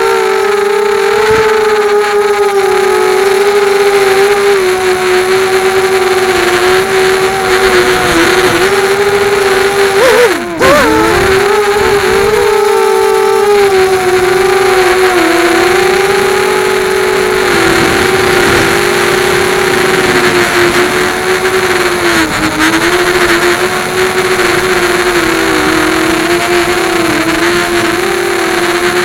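QAV250 quadcopter's brushless motors and propellers whining steadily, the pitch wavering a little with throttle. About ten seconds in the whine drops briefly, then surges up in pitch before settling again.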